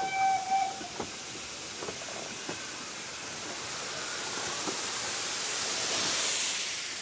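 A steam locomotive's whistle holds one steady note and stops about a second in. A hiss of steam follows, swelling and then easing off near the end.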